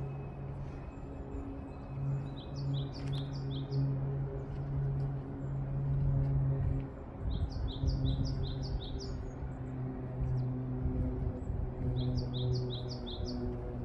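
A songbird sings three short phrases, each a quick run of about five to eight high, falling notes, a few seconds apart. Beneath it are wind rumble and a steady low hum that drops out briefly near the middle.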